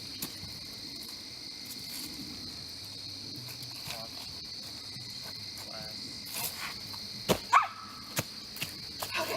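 Crickets chirping in a steady high-pitched chorus, with faint distant voices and two sharp knocks a little after seven seconds in.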